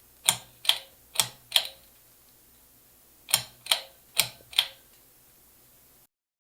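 Four sharp taps in quick succession, about two and a half a second, then after a pause of nearly two seconds another four just like them.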